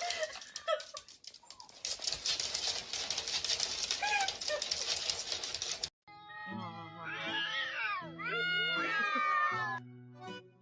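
A cat meows a few short times over rustling noise. After an abrupt cut about six seconds in, a cat yowls in long wavering calls that rise and fall, over background music.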